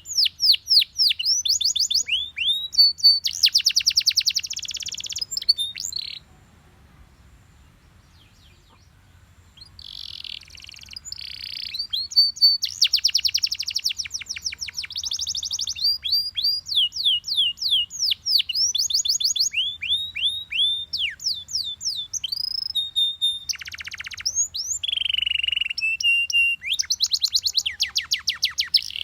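Belgian canary singing: phrases of quick repeated down-slurred whistles alternating with fast rattling trills. It falls silent for a few seconds about six seconds in, then resumes.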